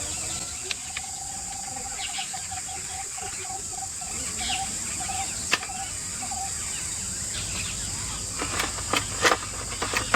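Forest ambience: a steady high insect drone, with a bird repeating one short, low note over and over for the first six seconds. In the last two seconds comes a run of sharp clicks and knocks.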